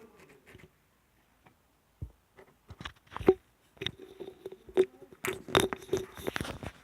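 Close-miked ASMR sounds: irregular sharp clicks, taps and crackles, starting about two seconds in and growing denser towards the end.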